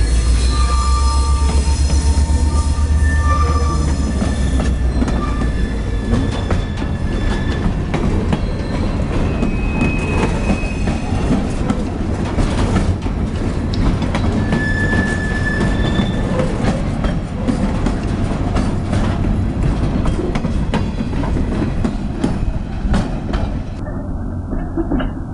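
A CSX diesel locomotive with a string of empty flatcars rolling past. The engine's low drone is strongest for the first few seconds, then fades as it draws away. After that, steel wheels clank over the rail joints, with short high squeals from the wheels on the rails.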